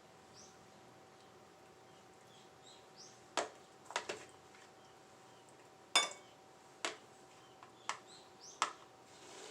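A handful of sharp taps or clicks at uneven intervals, the loudest about six seconds in, over a faint steady hum.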